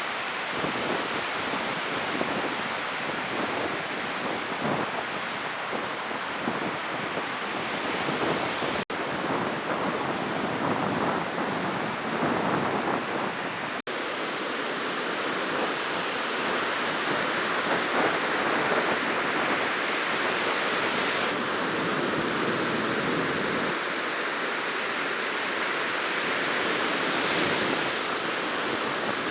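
Steady rushing noise with no distinct bangs, cutting out briefly twice, about nine and fourteen seconds in.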